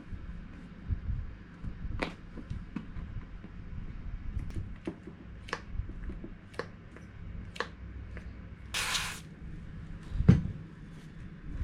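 Small clicks and taps of hand work on metal parts at irregular intervals, then a short half-second hiss of an aerosol spray can about nine seconds in, followed by a single louder knock about a second later.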